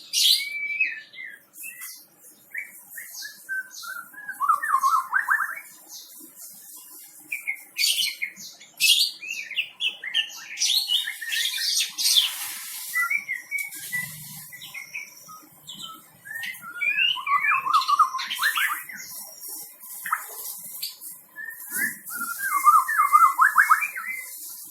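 White-rumped shama singing a varied song of clear whistled notes, sharp chips and fast rattling trills, in phrases with short breaks between them.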